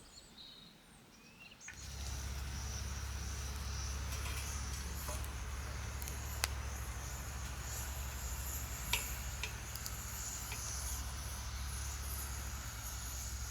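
Outdoor ambience that starts abruptly about two seconds in: a steady high chirring of insects such as crickets over a low, even rumble, with a few sharp clicks.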